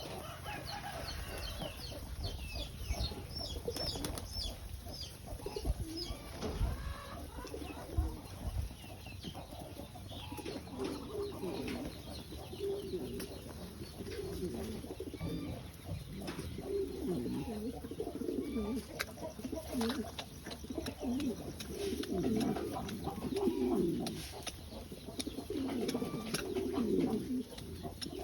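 Domestic pigeons cooing, many overlapping coos repeating throughout and growing thicker after the first ten seconds. In the first few seconds there are also short, high chirps.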